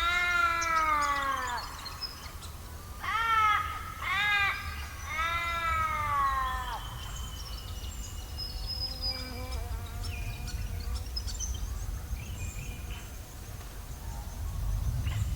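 A large bird calls four times in the first half, each call drawn out and arching in pitch, over a steady low rumble. Fainter high chirps of smaller birds and scattered faint clicks follow.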